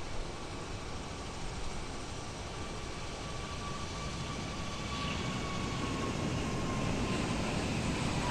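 Jet engines of a COMAC C919 airliner in flight: a steady rushing noise with a thin whine that slowly sinks in pitch. It grows louder toward the end as the aircraft comes nearer.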